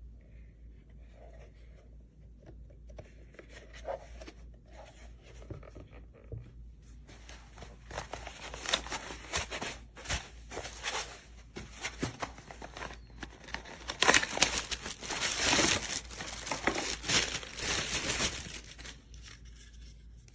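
Irregular crinkling and tearing handling noise, sparse at first and then denser and louder through the second half.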